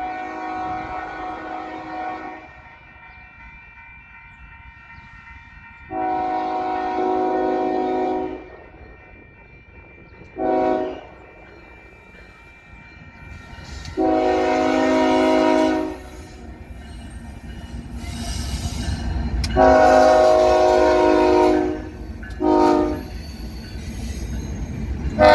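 Union Pacific 7768's multi-note locomotive air horn sounding the grade-crossing signal: long, long, short, long. It then starts the pattern again with a long and a short blast near the end. The diesel engine rumble grows louder as the locomotive approaches, partway through.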